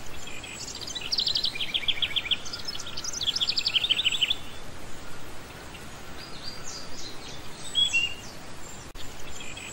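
Cage birds chirping in quick trilled runs of high notes over a steady background hiss: two runs in the first half, then a few short calls near the end.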